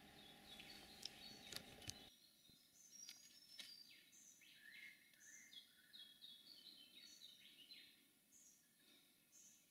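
Faint bird calls: many short high chirps and quick falling notes. A few light clicks and a low hum in the first two seconds stop abruptly.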